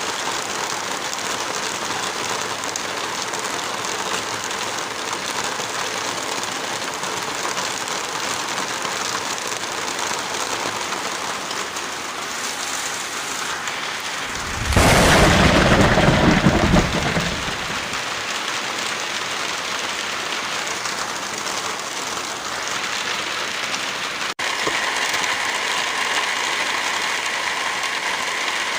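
Steady heavy rainfall, with a loud, deep clap of thunder about 15 seconds in that rumbles for about three seconds. About 24 seconds in the sound changes abruptly to a slightly louder rain bed with a faint steady hum in it.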